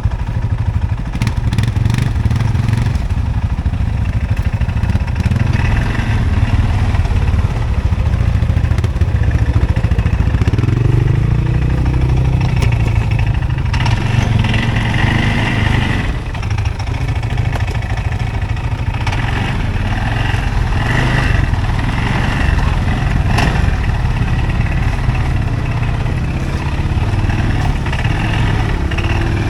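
CFMOTO ATV engine running steadily while riding, with the revs rising and falling around the middle and a few knocks.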